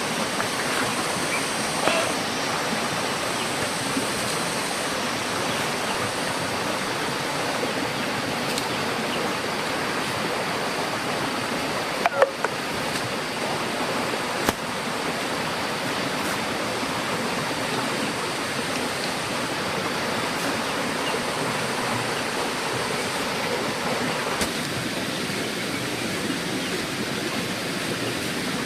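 A steady rushing noise, with a couple of short knocks about twelve and fourteen seconds in.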